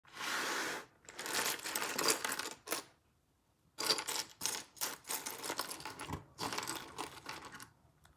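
Small LEGO plastic pieces and their packaging being handled: a brief rustle, then irregular clicking and clattering of loose bricks in stretches of a second or more.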